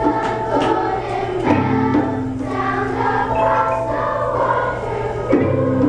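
Children's choir singing over held low notes from the accompanying instruments.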